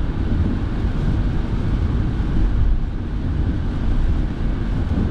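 Steady car-interior driving noise: a low rumble of engine and tyres on the road, with the heater fan blowing.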